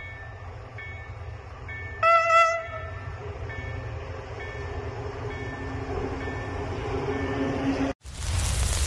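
Electric locomotive approaching with its train: one short horn blast about two seconds in, then a steadily building rumble as it nears. About eight seconds in the train sound cuts off abruptly and is replaced by a loud hiss of static.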